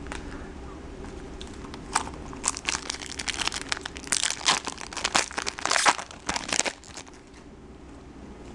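Foil trading-card pack wrapper crinkling and tearing open, a rapid run of sharp crackles lasting about five seconds and starting a couple of seconds in.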